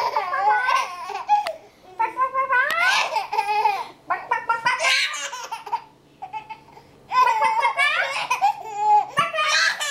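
A baby laughing hard in several bouts of giggles, with short pauses between them.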